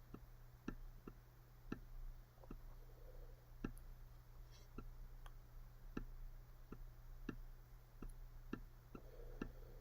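Faint, light clicks of a pen or stylus tapping down as a step of working is written out, about one or two a second at uneven spacing, over a faint steady low hum.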